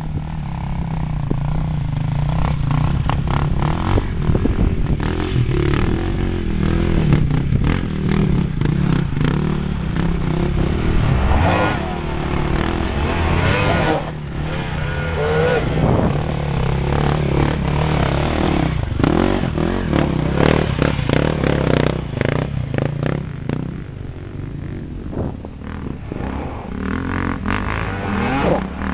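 Dirt bike engine running and revving unevenly as the bike is ridden off-road, with scattered knocks and clatter.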